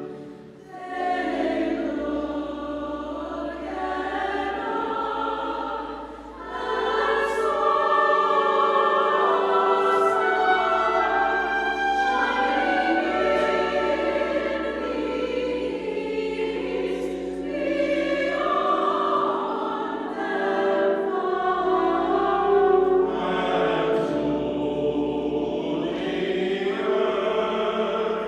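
A choir singing sacred music in sustained, held chords, with brief breaks between phrases near the start and about six seconds in.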